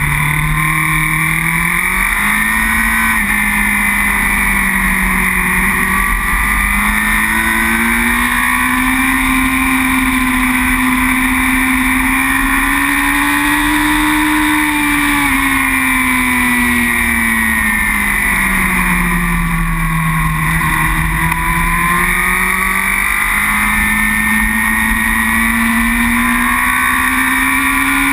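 Racing superbike engine heard onboard at race pace, its note climbing and falling over several seconds with the throttle and gear changes.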